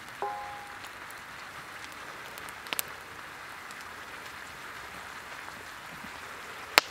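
Steady rain falling on the woods, an even soft hiss. Just after the start there is a short ringing clink, and there are a few sharp clicks, the loudest near the end.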